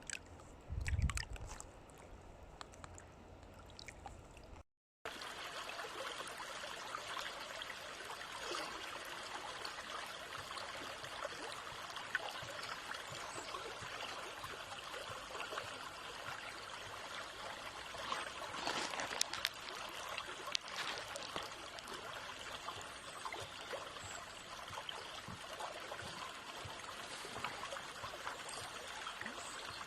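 Water trickling and babbling in a small stream, a steady splashing flow. It breaks off briefly about five seconds in, and a low thump comes about a second in.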